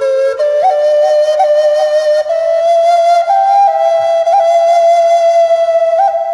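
Native American flute, the Black Natura, playing a slow solo melody of long held notes that climb gradually in pitch, each change marked by a quick upward grace-note flick.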